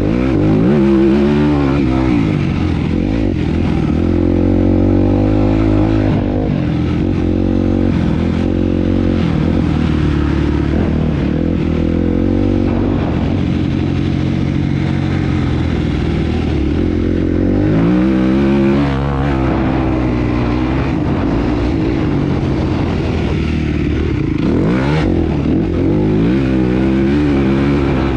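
Motocross motorcycle engine at racing throttle. Its pitch rises and falls again and again as the rider accelerates, shifts and backs off.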